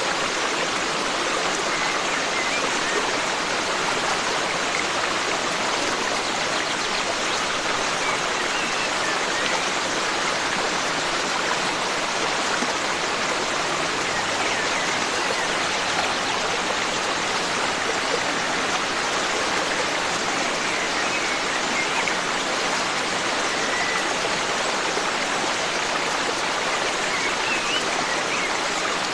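Forest stream flowing: a steady rush of running water, with a few faint bird chirps now and then.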